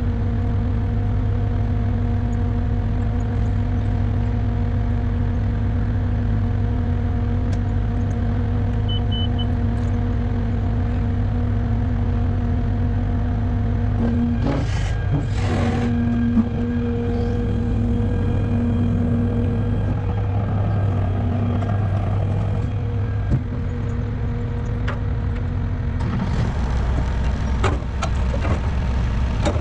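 Heavy diesel truck engine running at a steady speed, with two short hisses of air about halfway through.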